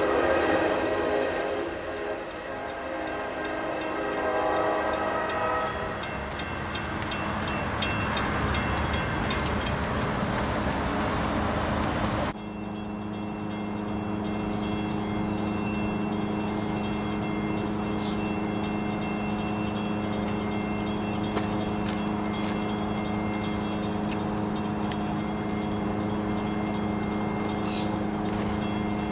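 A commuter train running by and fading away, its locomotive engine drone and wheel noise dying down over the first several seconds. After an abrupt cut a steady low hum goes on, with a couple of faint bird chirps.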